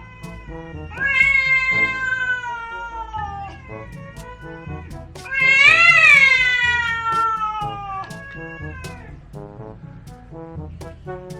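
A domestic cat meowing in long, drawn-out calls: one falling call about a second in, a louder one in the middle that rises then falls in pitch, and a shorter one after it. Background music with stepped notes plays underneath.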